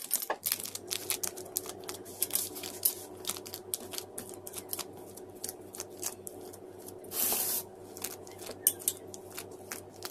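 Parchment paper crinkling and rustling, with quick light taps and crackles, as soft yeast dough is pressed and spread out to the edges of a paper-lined baking form by hand. A longer rustle comes about seven seconds in, over a faint steady hum.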